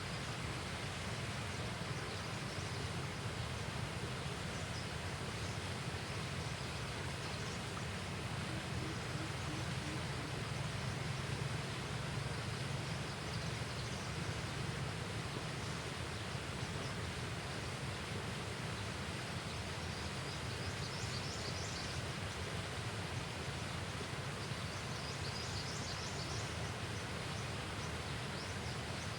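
Steady outdoor riverside ambience: an even hiss over a low rumble, with faint high chirps from small creatures twice in the later part.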